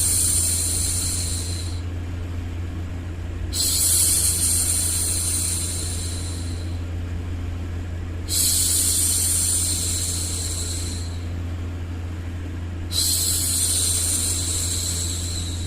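A woman's voice making long 'shhh' hushing sounds, each about three seconds long, repeating every four to five seconds over a steady low hum.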